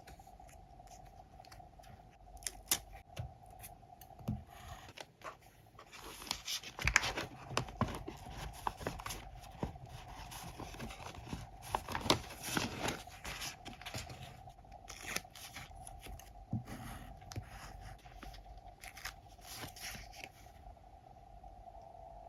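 Paper-crafting handling sounds: scissors snipping and paper rustling and tearing, heard as a run of sharp clicks and scrapes that is busiest in the middle. A faint steady hum runs underneath.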